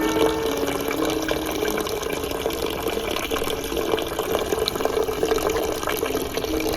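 Running water splashing steadily, with soft background music holding slow notes underneath.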